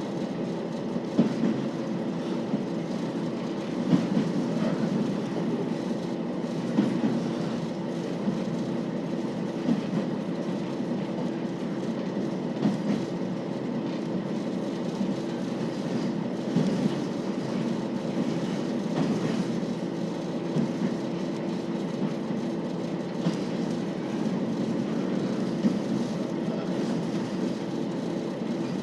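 KiHa 40 series 2000-subseries diesel railcar under way: a steady hum of the diesel engine and wheels on the rails, with occasional sharp clicks from the rail joints.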